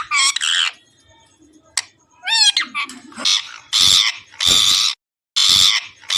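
Pet parrot calling: two short warbling calls, then a run of loud, harsh squawks about half a second each from about halfway through.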